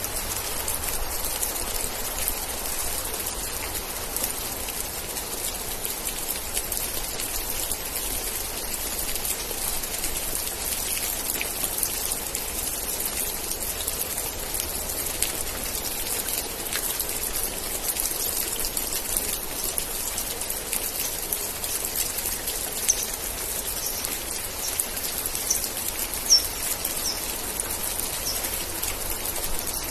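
Steady rain falling on a surface, an even dense patter. Near the end come a couple of louder single drop hits and a few faint, short, high chirps.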